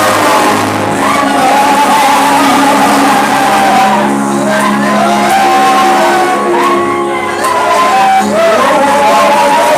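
Congregational worship: voices singing and shouting praise over held instrumental chords, carried by the reverberation of a large hall.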